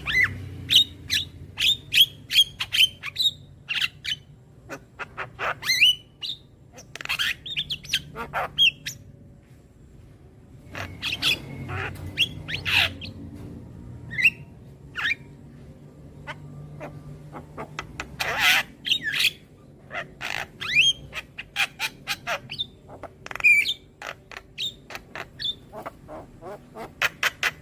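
Javan myna (jalak kebo) calling: a rapid, irregular string of sharp squawks and chirps, many with quick rising whistles. There is a short lull about ten seconds in, and a louder harsh call a little past the middle.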